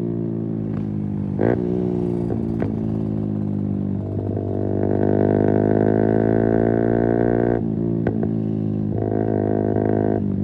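Keeway RKF 125's single-cylinder four-stroke engine on the move through a Mivv exhaust with the dB killer removed. The engine note sinks slowly as the bike rolls off the throttle, with a few sharp pops. About four seconds in it rises as the throttle opens and climbs, dips briefly at a gear change, then pulls again.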